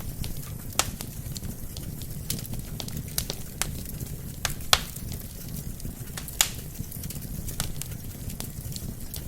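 Wood fire burning in a fireplace: a steady low rumble of flames with irregular sharp crackles and pops from the logs, a few of them louder.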